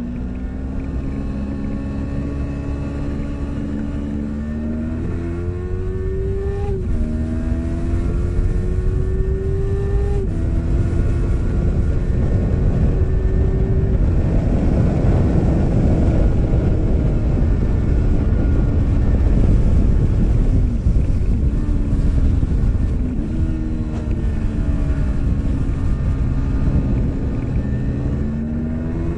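2017 Yamaha R3's 321 cc parallel-twin engine at full throttle on track, its pitch climbing and dropping back at each upshift several times, over a rush of wind on the microphone that is loudest mid-way along the straight. Later the revs fall and blip through downshifts, then climb again near the end.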